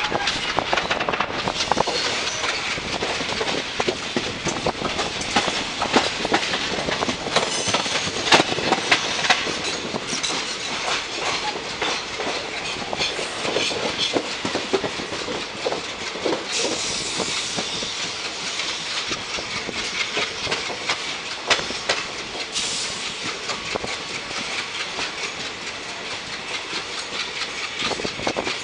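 Passenger train coach running along the track, heard from its open doorway: a steady rushing rumble with the wheels clattering over the rails, the loudest knocks about a third of the way in.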